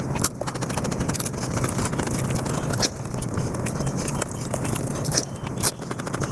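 Close-up eating sounds played five times faster than normal: a rapid, continuous run of wet chewing and mouth smacking, with a few sharper crackles.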